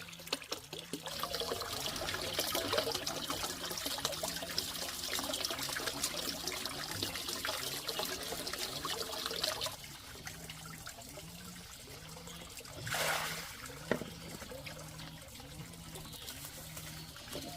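Water pouring and splashing for the first ten seconds or so, then a quieter trickle with a short swell of water sound about thirteen seconds in.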